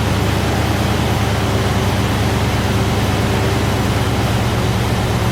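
1993 Ford Mustang Cobra SVT's 5.0-litre V8 running at a steady idle just after a cold start.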